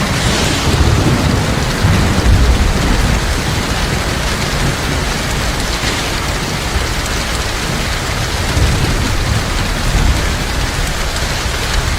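Heavy rain falling in a steady, dense hiss, with a low rumble of thunder underneath that swells slightly twice.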